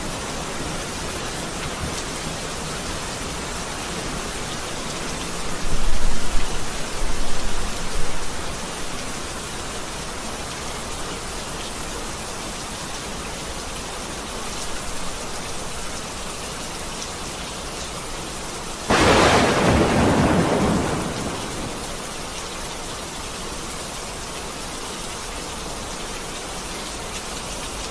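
Steady rain falling in a thunderstorm, with a low roll of thunder about six seconds in and a sharp, loud thunderclap about two-thirds of the way through that dies away over a couple of seconds.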